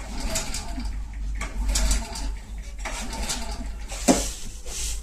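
Scattered clicks and clatter of a Milwaukee M18 FPD2 cordless hammer drill being handled, with one sharper knock about four seconds in; the motor is not running.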